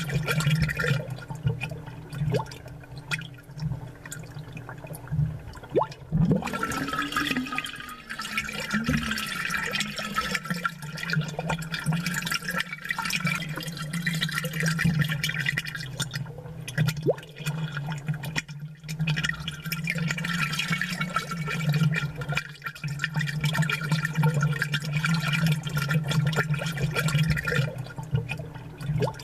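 Aquarium water bubbling and trickling without pause, over a steady low pump hum. Many small pops run through it, and the bubbling thickens for a few seconds at a time.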